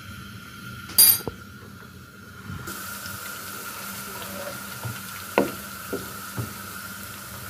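Crushed garlic frying in oil, with a steady sizzle setting in about three seconds in. A wooden spoon stirs and knocks against the pan a few times, and there is one sharp clatter about a second in.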